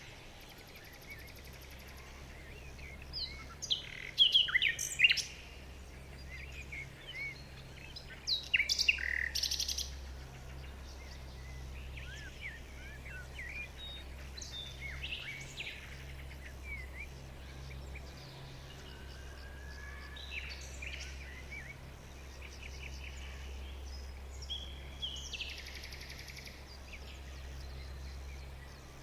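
Songbirds chirping and calling, with loud flurries of quick chirps about three and eight seconds in and softer scattered calls after, over a steady low hum.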